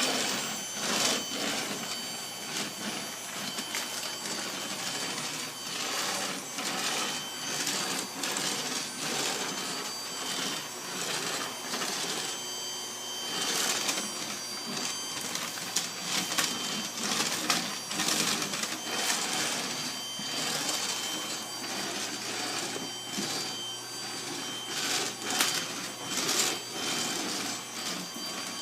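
Vacuum cleaner running steadily with a high whine, with frequent short clatters and rattles over it.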